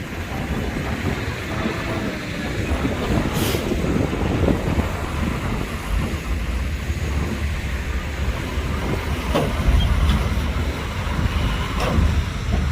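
Heavy diesel earthmoving machinery running with a steady low rumble, with a few sharp metallic knocks over it.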